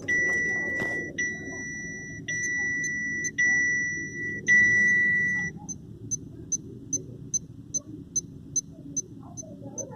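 Electronic warning chime of a Chevrolet Captiva sounding five steady high beeps of about a second each, back to back, which stop about halfway through. Faint regular ticking follows, about two and a half ticks a second.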